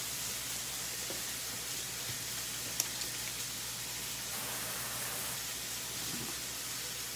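Chicken frying in a pan: a steady, soft sizzle, with a single small click about three seconds in.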